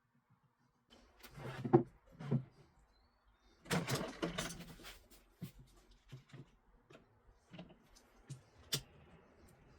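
Workpieces and tools being handled on a bench: a few knocks, a longer scraping clatter around four seconds in, then scattered sharp clicks and taps.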